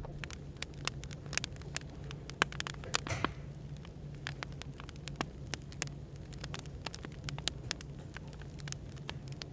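Wood fire crackling, with frequent irregular sharp pops and one longer pop about three seconds in, over a steady low hum of café background noise.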